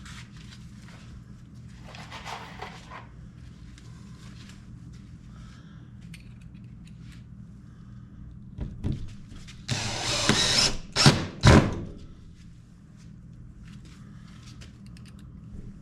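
Power drill drilling pilot holes for screws around a window frame in a camper shell wall: a loud run of about a second, about ten seconds in, followed by two short bursts. Before that, small clicks and handling noises over a steady low hum.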